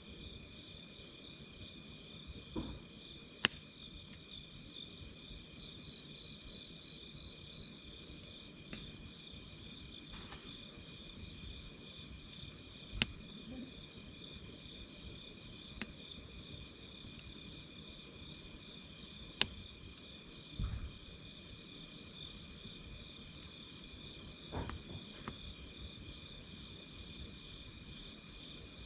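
Crickets trilling steadily and high-pitched, with a few sharp pops from a crackling campfire, the loudest about three, thirteen and nineteen seconds in.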